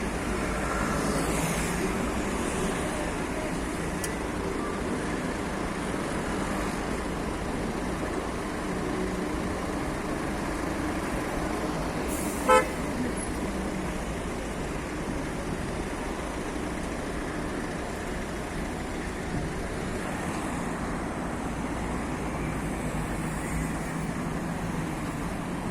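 Steady city road traffic with buses passing, and a short vehicle horn toot about halfway through.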